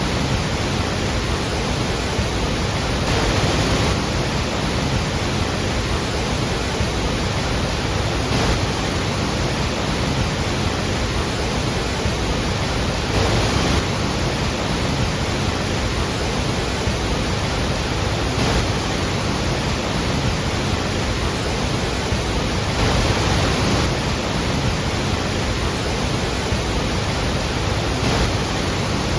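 Iguazú Falls' waterfalls thundering: a loud, steady rush of falling water that swells slightly every few seconds.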